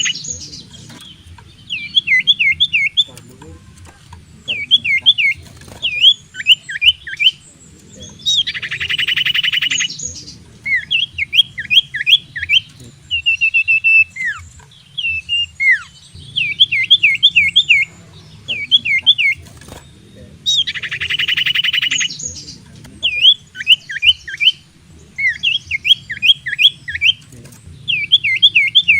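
Common iora (cipoh) singing: clusters of three to five quick, sharp down-slurred whistled notes, broken about every twelve seconds by a rasping, buzzy note lasting over a second.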